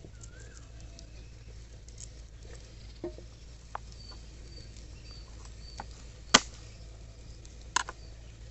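Scattered light taps and sharp clicks of hands breaking garlic cloves off a bulb, two louder snaps about six and a half and eight seconds in. Birds chirp faintly.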